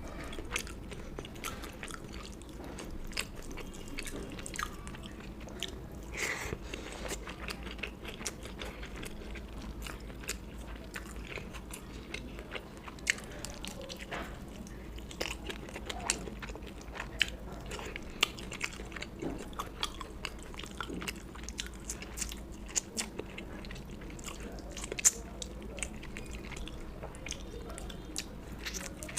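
A person chewing and biting food close to the microphone, with frequent short crunching clicks over a steady low hum.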